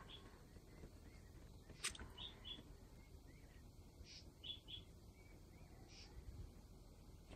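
Faint short, high bird chirps, some in quick pairs, every couple of seconds over low background noise, with one sharp click about two seconds in.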